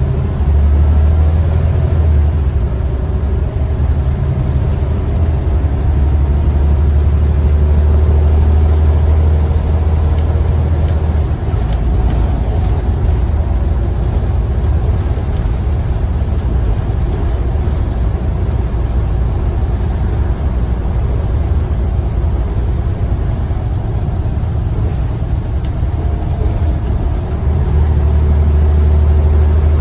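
Scania L94UB bus engine running steadily, a loud, low drone. The drone eases off about 11 seconds in and rises strongly again near the end.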